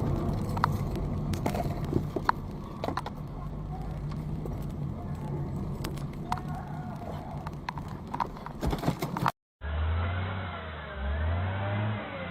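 Car engine running steadily, with scattered sharp clicks and knocks. About nine seconds in, the sound cuts out abruptly and a different, duller recording of a vehicle engine takes over, its pitch shifting up and down.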